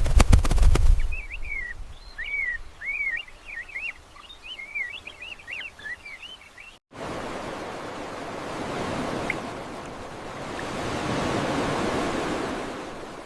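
A brief low rumble with clicks, then a small bird chirping in quick, repeated rising and falling notes. About seven seconds in it cuts to steady rushing water, swelling and easing.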